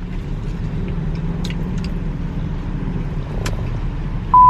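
Steady low road rumble inside a moving car, with a few faint clicks. Near the end a loud, pure, steady beep starts suddenly: a censor bleep over a swear word.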